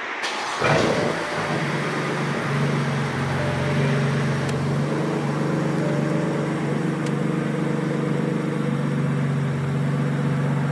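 BMW M4's 3-litre twin-turbo straight-six starting, with a brief flare of revs about half a second in, then settling into a steady idle.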